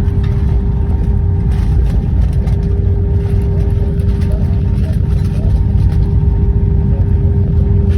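Cabin noise inside an Airbus A319-100 on the ground after landing: a steady low rumble of the engines and airframe, with a steady hum running under it.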